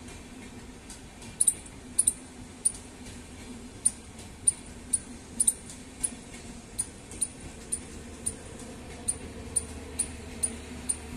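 Long passenger train passing at a distance: a steady low rumble under a run of short, sharp metallic clicks, about two a second and sometimes in quick pairs, from its wheels running over the track.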